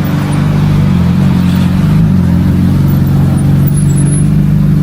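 A motor vehicle's engine running steadily and loudly close by, holding a low, even hum with a slight wobble in pitch about two seconds in.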